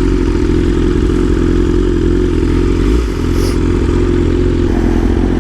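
BMW S1000RR inline-four engine running steadily at low revs, with no revving.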